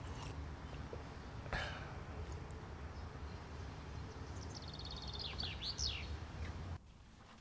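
Outdoor ambience with a steady low rumble, a short noise about a second and a half in, and a bird giving a few quick chirping calls around five seconds in. Near the end it cuts suddenly to a much quieter room hush.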